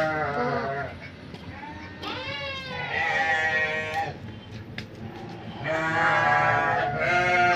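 Farm animal bleating three times in long, wavering calls, the last one held for over two seconds.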